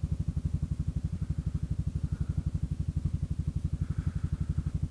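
Kymco Xciting 400i's single-cylinder engine idling, a steady, even pulse of about a dozen beats a second.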